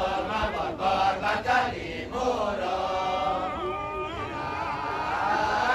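Kecak chant: a chorus of many male voices chanting together, with sharp rhythmic syllables in the first two seconds, then a long held, wavering chant.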